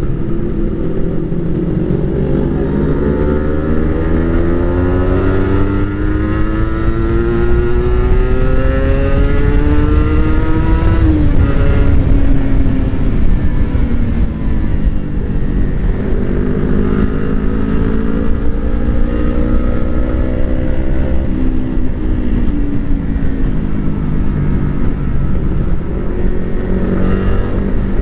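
Motorcycle engine under way, its pitch climbing steadily for about ten seconds, dropping about eleven seconds in and falling away, then climbing again and easing off, over a low rumble.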